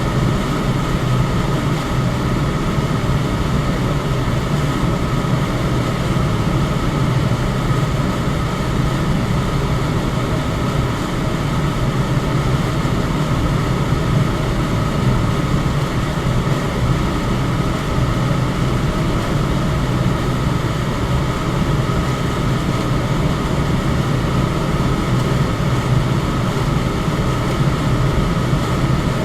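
Electric fan running steadily: an even rush of air over a low hum, with a faint steady high tone above it.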